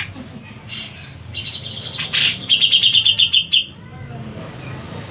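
Cucak jenggot (grey-cheeked bulbul) calling: a few short notes, a loud harsh burst about two seconds in, then a fast rattling trill of about ten notes a second lasting about a second. A low steady hum sits underneath.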